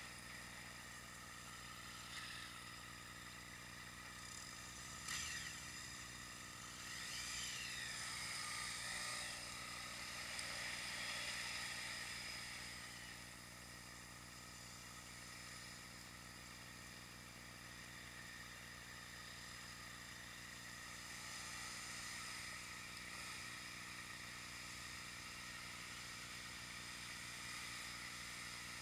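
Steady road and wind noise with a constant electronic hum, recorded by an action camera during a ride. A short knock comes about five seconds in, and from about seven seconds a passing vehicle's sound swells and fades.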